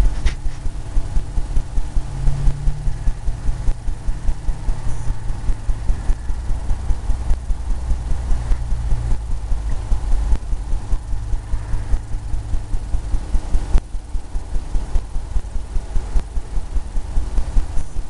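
A steady low mechanical rumble that throbs several times a second, like a machine running.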